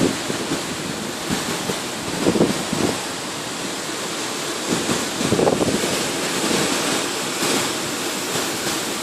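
Storm-force wind blowing steadily, with stronger gusts surging about two seconds in and again about five seconds in.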